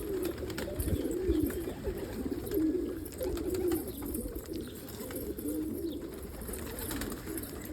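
Flock of domestic pigeons cooing, several birds at once, their low warbling coos overlapping without a break.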